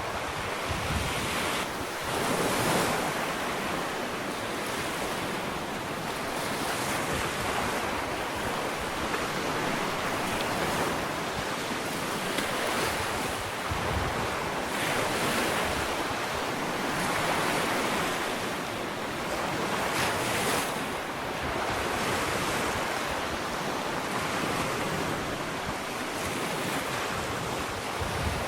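Small ocean waves washing onto a sandy beach, a steady surf hiss that swells and eases every few seconds, with some wind on the microphone.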